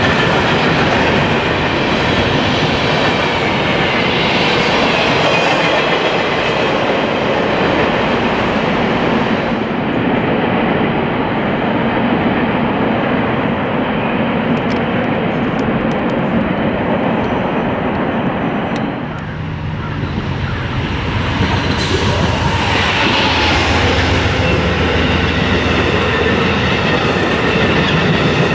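Freight train cars rolling past at close range, with steady rumbling and wheels clacking over the rail joints. In the last few seconds the sound changes as Amtrak passenger cars run past.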